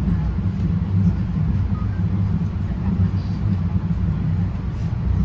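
Steady low rumble of a NJ Transit Comet II/IV passenger coach riding along the rails, heard from inside the car.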